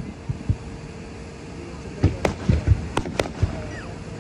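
Fireworks display: a couple of low thumps, then from about two seconds in a quick cluster of low booms and sharp cracks.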